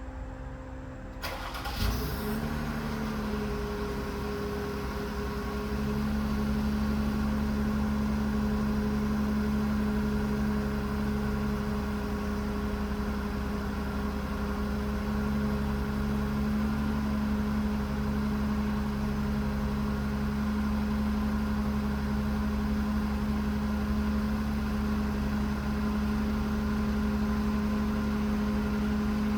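2018 Jeep Wrangler engine cold-starting: a short crank about a second in, catching with a brief flare, then settling into a steady idle that rises a little a few seconds later and holds.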